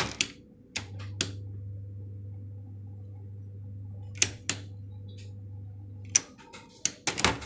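Small electric fan motor, just repaired and reassembled, switched on for a test: a steady low electrical hum from about one second in until about six seconds in. Sharp clicks and knocks come at switch-on, twice midway and near the end.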